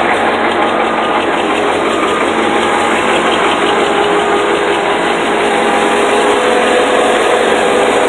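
Diesel engine of a 1974 International Harvester crawler loader running steadily after a cold start. The engine has been rebuilt and runs smoothly; the heavy smoke comes from old diesel fuel, not from an engine fault.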